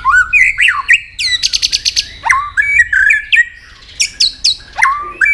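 White-rumped shama singing a varied song of rising and falling whistles, with a fast rattling string of notes about a second in and sharp downward-sweeping notes near the end.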